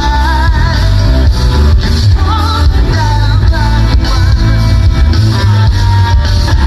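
Live rock band playing loudly through a PA: a heavy bass and drum beat with a singer's wavering melody on top.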